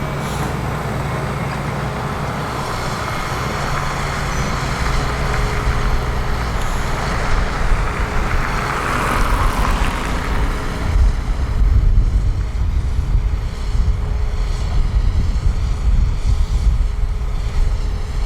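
Heavy diesel construction machinery running steadily, with a hiss that swells and fades in the middle. From about eleven seconds in, a heavier, uneven low rumble takes over.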